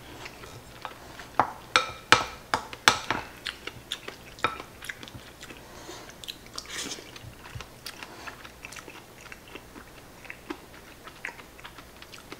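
Close-miked chewing and eating of soft tenshinhan (crab-stick omelette on rice in thick sauce), with wet mouth sounds and a spoon clicking and scraping against the bowl. The sharpest clicks come in a cluster about one and a half to three seconds in, then softer chewing follows.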